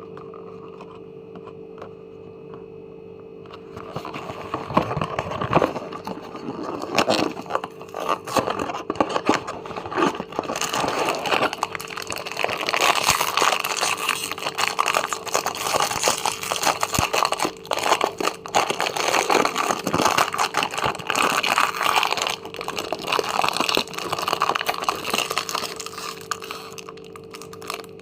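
Crinkling, crackling and crunching of a packet of milk-chocolate digestive biscuits being handled, starting about four seconds in and stopping just before the end, over a steady low hum.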